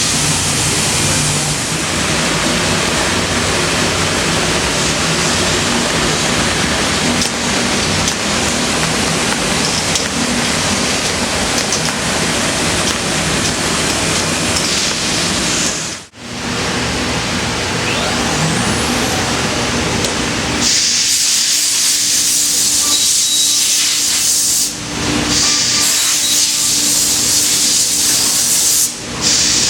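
C.R. Onsrud 5-axis CNC router cutting wood: a loud, steady hissing cutting noise. It breaks off briefly about halfway, then comes back brighter and higher-pitched, with a steady hum beneath.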